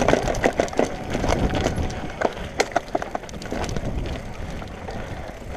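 Rapid knocks and clatter from a mountain bike jolting over rough singletrack, over the low rumble of riding. The knocks are densest in the first three seconds and thin out after that.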